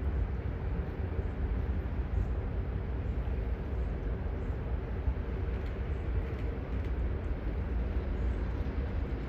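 Freight transfer train rolling past, a steady low rumble with no break.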